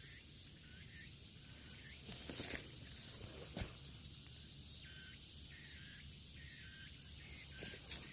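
Faint forest ambience: a steady hiss with short, repeated high chirps. A few brief rustles or steps come through, the loudest about two and a half seconds in.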